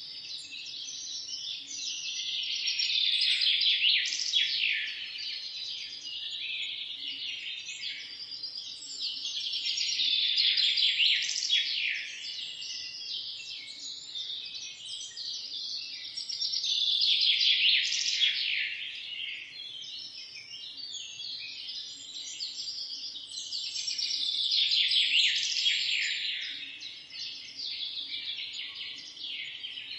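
Many small birds chirping and twittering together in a dense chorus of rapid high chirps and trills, swelling louder and fading back roughly every seven seconds.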